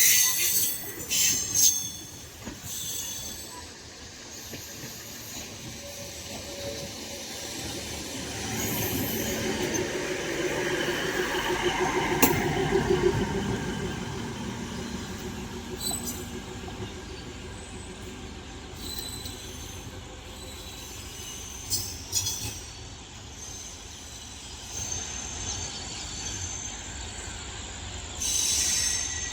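Indian Railways passenger train running on the track, with a continuous rolling rumble and metallic wheel squeal, a few sharp clicks near the start, and a swell to its loudest about twelve seconds in before easing off.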